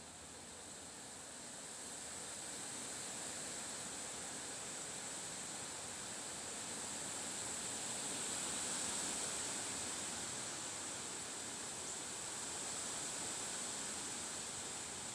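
Wind blowing in gusts, a steady rushing hiss that swells and eases over several seconds, with a thin, steady high-pitched tone underneath.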